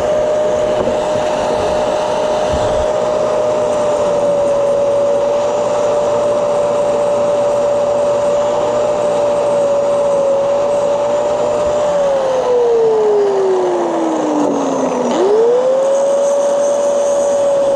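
Electric angle grinder running and grinding down a weld, a steady whine over grinding noise. Near the end its pitch sinks slowly for about three seconds as the motor bogs under load, then quickly springs back up.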